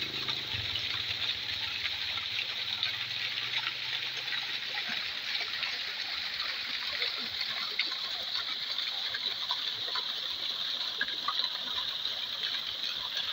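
Waterfall splashing steadily: an even rushing hiss full of fine crackling splashes.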